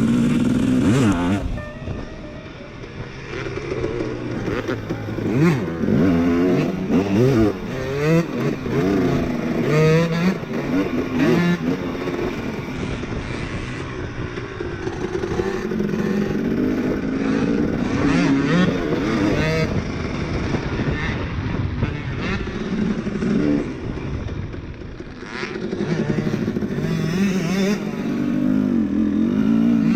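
Two-stroke motocross dirt bike riding, its engine revving up and down over and over as the throttle is worked. The sound fades briefly a couple of seconds in and again later on, then comes back up.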